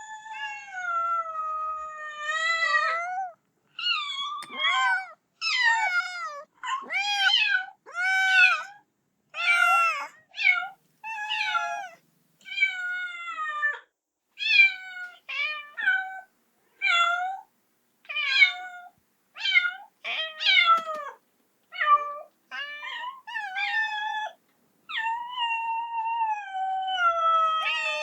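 Kitten meowing over and over, calling for its mother: long drawn-out meows at the start and near the end, with many short meows in quick succession between.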